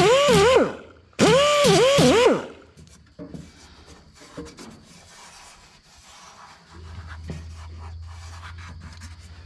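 High-speed grinder whining in two short runs, its pitch dipping and recovering again and again as it bites into the weld metal, stopping a little over two seconds in. Light scraping and rubbing follows, and a low steady hum starts about seven seconds in.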